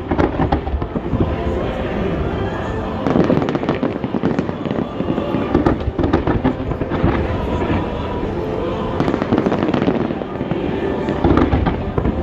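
Aerial fireworks display: a dense, continuous barrage of bangs and crackles, many shells bursting in quick succession.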